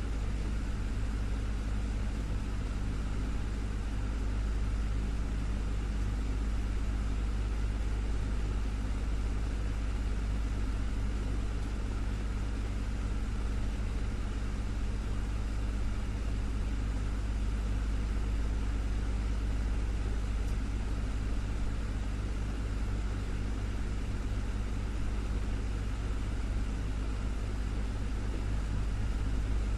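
Desktop fan running steadily: an even rush of air over a continuous low hum, with no change in speed.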